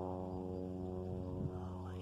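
A steady low droning hum with many overtones, holding one pitch without change.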